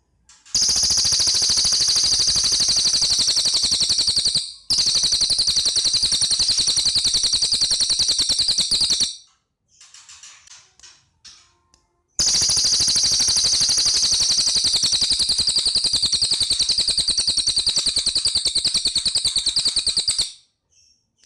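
A cililin songbird singing its loud, fast rattling trill in three long bursts, each several seconds long, like machine-gun fire. A few faint short chirps come in the pause between the second and third bursts.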